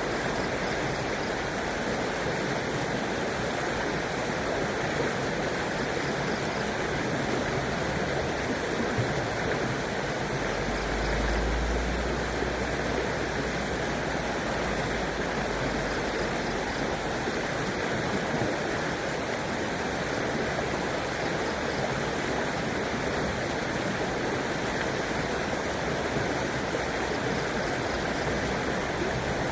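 A river flowing steadily over stones, a constant rushing and babbling. A brief low rumble comes through about ten seconds in.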